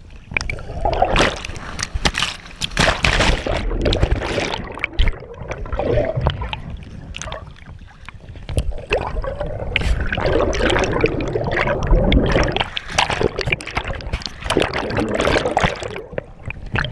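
Water splashing and sloshing right against a chest-mounted GoPro in a lake, in loud, irregular surges that rise and fall.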